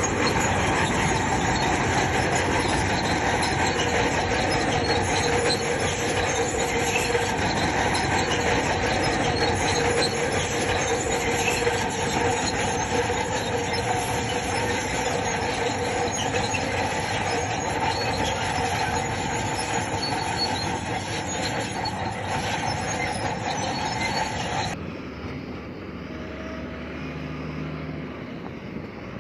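Crawler bulldozer working: diesel engine running under load while its steel tracks squeal and clank steadily. About 25 seconds in the sound cuts abruptly to a quieter engine hum.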